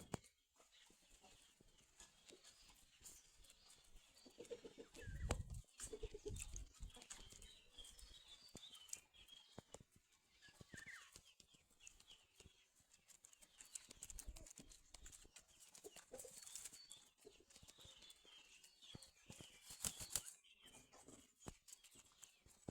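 Chickens clucking faintly, with scattered small clicks and a louder low rustling thump about five seconds in.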